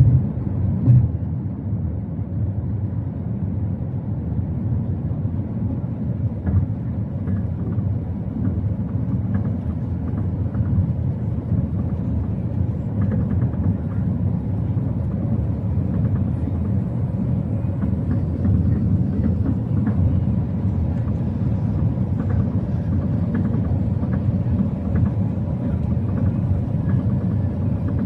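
Steady low rumble of cabin noise inside an Airbus A380-800 airliner on approach, from its engines and the airflow around it.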